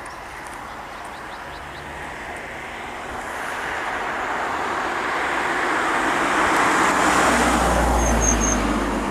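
A train approaching and passing close by: a rushing noise grows steadily louder over several seconds, with a deep rumble coming in near the end and three short high chirps just before it eases off.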